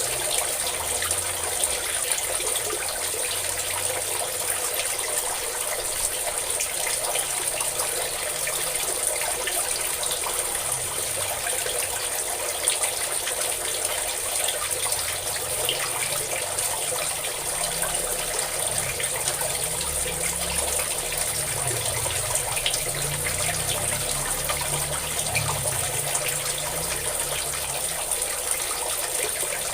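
Water pouring and splashing steadily, a continuous stream falling onto water.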